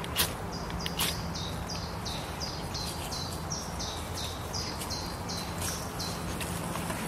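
A small bird singing a rapid run of high, repeated notes alternating between two pitches, about three notes a second. Near the start, two short sharp scrapes of a ferro rod being struck.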